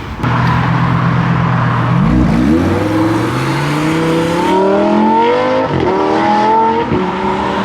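A car engine running steadily, then accelerating hard about two seconds in, its pitch climbing and dropping back at the gear changes before climbing again.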